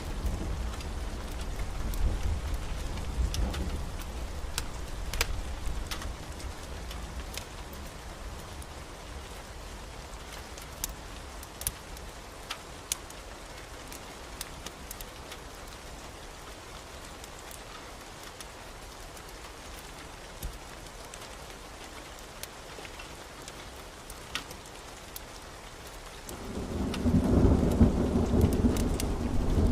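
Steady rain with thunder. A low rumble of thunder dies away over the first few seconds, then a louder roll of thunder builds near the end, with scattered sharp ticks throughout.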